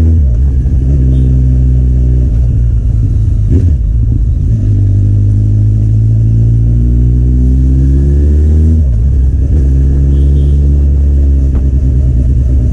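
Kawasaki Z800's inline-four engine through an aftermarket Akrapovič exhaust, running steadily under way. Its note breaks up briefly near the start and again about nine seconds in, then steadies again.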